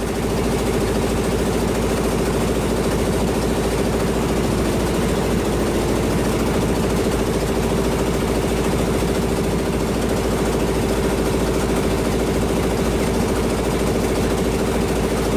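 Fishing boat's dompeng single-cylinder diesel engine running steadily at constant speed with a fast, even pulsing beat.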